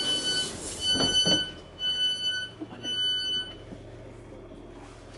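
Train door-closing warning beeps: four evenly spaced high beeps, about one a second, with a couple of knocks about a second in as the sliding doors shut.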